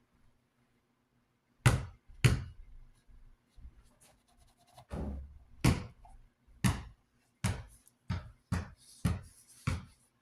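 A rag rubbing paint thinner on a desk fan part to lift paint: a series of short scrubbing strokes and light knocks. They start about a second and a half in and come about once or twice a second, faster toward the end.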